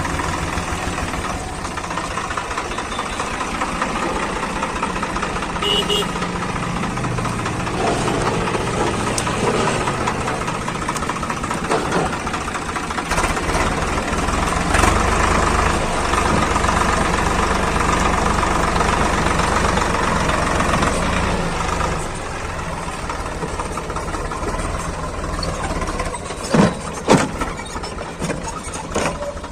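Swaraj 855 FE tractor's three-cylinder diesel engine running steadily with an even chugging pulse. It gets somewhat quieter after about 22 seconds, and two sharp knocks come near the end.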